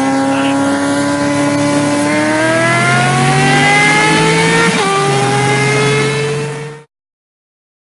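A vehicle engine accelerating hard, its pitch climbing steadily, dropping once at a gear change about five seconds in, then climbing again before cutting off suddenly.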